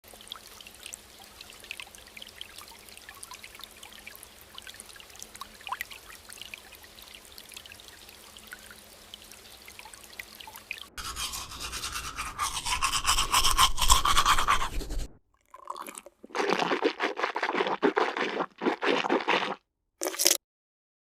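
Washing at a bathroom sink: scrubbing and water sounds in several short cut-together stretches. It is faint for the first half, then louder from about halfway in, and stops abruptly at each cut.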